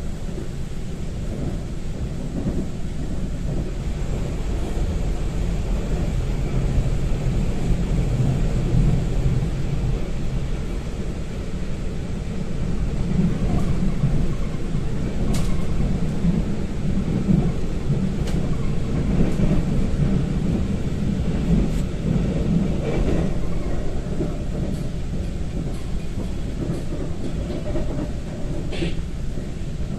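Taiwan Railways train running between stations, heard from inside the carriage: a steady low rumble that swells a little midway, with a few faint clicks.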